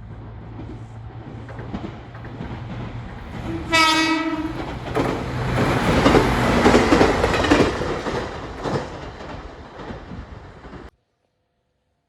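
Train approaching and sounding its horn once for about a second, then passing close by with wheels clattering over the rail joints. The passing noise fades, then cuts off suddenly near the end.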